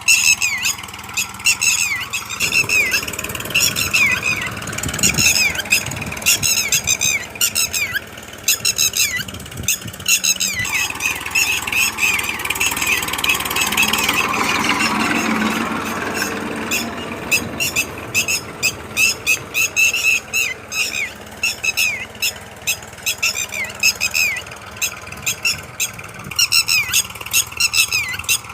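Young birds chirping in rapid runs of short, falling cheeps, the begging calls of chicks. A rumbling noise swells and fades in the middle.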